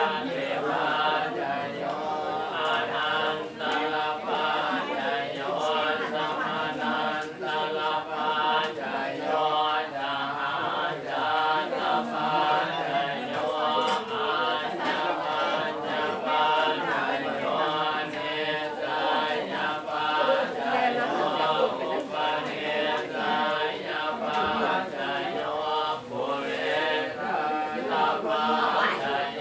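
A group of voices chanting Buddhist verses in unison, a steady unbroken recitation.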